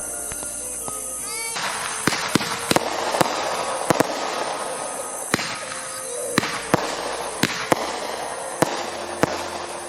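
Consumer fireworks going off: a steady spraying hiss with about a dozen sharp pops and cracks scattered through it.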